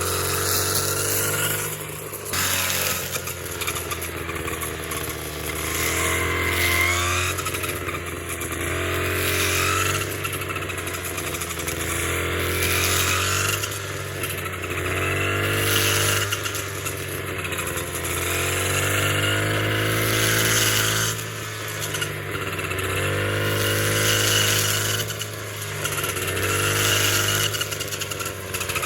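A small engine running steadily, its pitch swelling up and down in repeated surges every two to three seconds.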